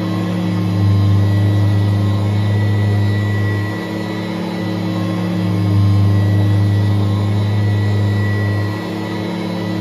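Kirby vacuum cleaner running steadily, a motor hum with a steady high whine, its level swelling and easing slowly a couple of times.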